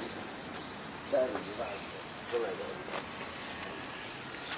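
Many small birds chirping: a continuous, overlapping run of high, arched chirps, several a second.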